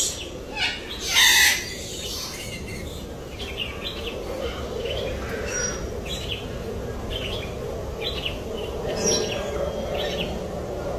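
Parrots calling: a loud, harsh squawk about a second in, then a run of short, high chirps.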